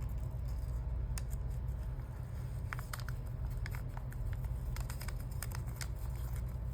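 Light, scattered clicks and rustles of paper being handled: a delicate paper sticker being worked free of its backing. A steady low hum runs underneath.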